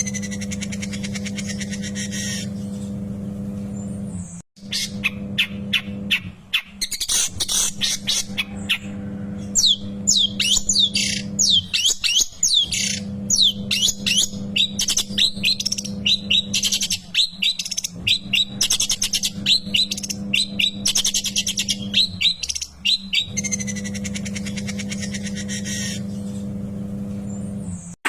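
Long-tailed shrike (cendet) singing a fast, scratchy run of rapid chirps and quick falling whistles in bursts with short pauses. A steady low hum lies underneath.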